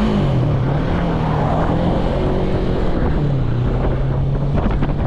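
Yamaha MT-03 motorcycle's parallel-twin engine running steadily at speed, with heavy wind rushing over the microphone. The engine note drops slightly about three seconds in.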